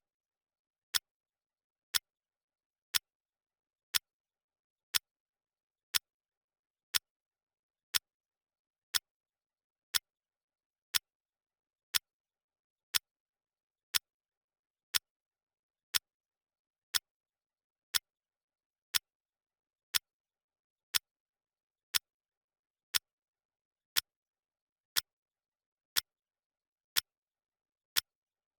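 Clock ticking, one sharp tick each second, evenly spaced.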